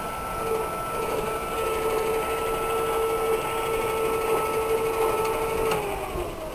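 GE E12 Elec-Trak electric tractor's drive motor and gears whining steadily as it drives. Near the end the whine drops slightly in pitch and fades as the tractor slows.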